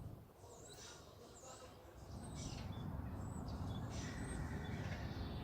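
Small birds chirping in short, high, repeated chirps over a low steady rumble.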